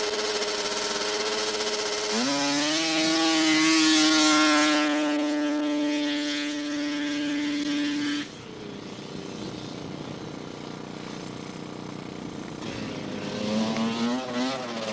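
Two-stroke racing snowmobile engine idling, then snapping to full throttle about two seconds in and holding a high steady pitch for about six seconds before the sound drops away abruptly. Near the end an engine is revved in a few quick, wavering blips.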